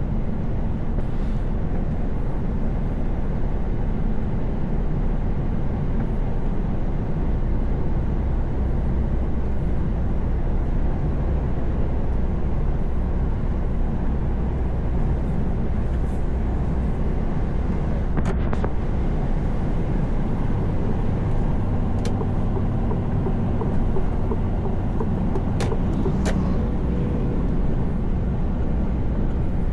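Truck's diesel engine and road noise while cruising on the highway, a steady low drone. A few faint clicks in the second half.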